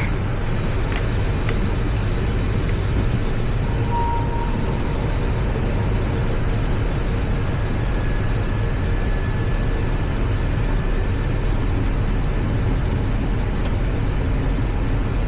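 Steady flight-deck noise of an Airbus A320 on approach: a constant rush of airflow and engine noise with a deep rumble. A few faint clicks come in the first few seconds.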